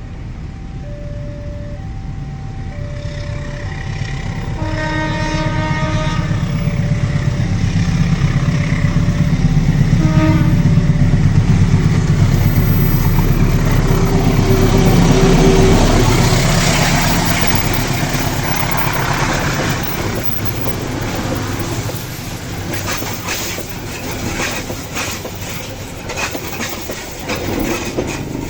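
A train approaching and passing: a two-tone level-crossing alarm alternates steadily for the first ten seconds or so. The train horn sounds once long and once briefly. The rumble of the locomotive and carriages then builds, is loudest around the middle and eases off, with rapid clicking of wheels over rail joints near the end.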